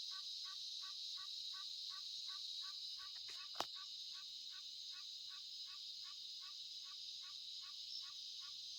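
An animal call repeated evenly, about three or four short notes a second, which the listener takes for a wild turkey or something mimicking one; it sounds almost like a frog. Under it runs a steady high insect drone, and one sharp click comes a little past three seconds in.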